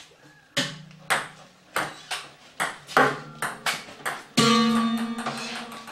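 Table tennis rally: the ball clicks sharply off paddles and table about every half second. About four and a half seconds in, a louder hit is followed by a sustained ringing chord with several overtones.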